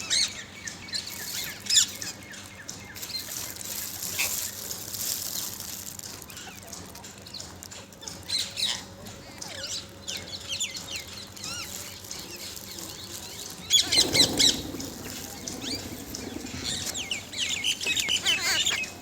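Parrots chirping and calling in a string of short, high, gliding notes, with a louder, harsher burst about fourteen seconds in and a busy run of chirps near the end.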